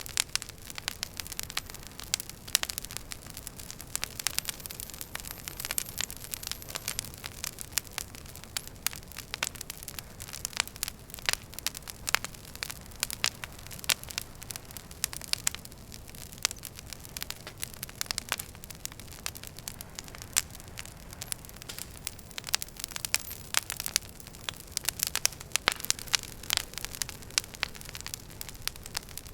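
Wood fire crackling and popping in a fireplace: dense, irregular sharp snaps over a steady low rumble of the flames.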